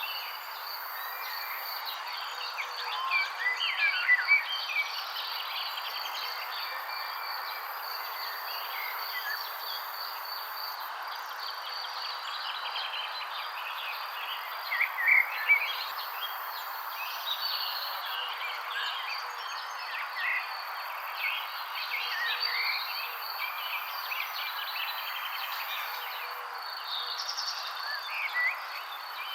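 Wild songbirds chirping and twittering in short scattered calls over a constant insect drone and a steady background hiss, with louder flurries of chirps about four seconds in and again about halfway through.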